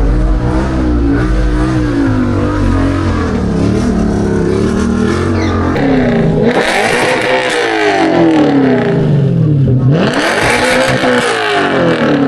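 A car engine revved hard over and over, its pitch climbing and falling. About six seconds in, and again about ten seconds in, two big revs come with a loud rushing noise over them.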